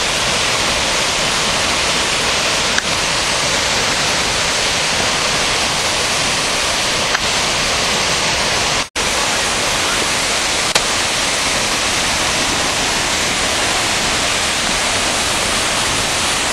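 Floodwater pouring through below a dam: a loud, steady, thunderous rumble of rushing water. A brief break about nine seconds in.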